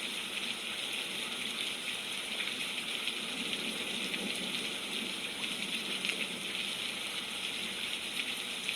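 Steady rain falling: an even hiss of rain with no breaks.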